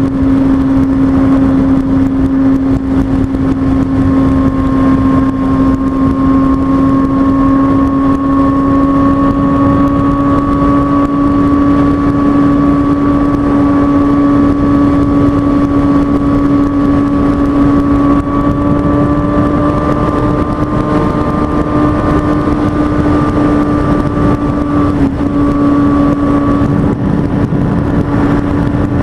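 Kawasaki ZX-6R 636 inline-four motorcycle engine running at a steady cruising speed, its note creeping up slightly in pitch partway through, under heavy wind noise.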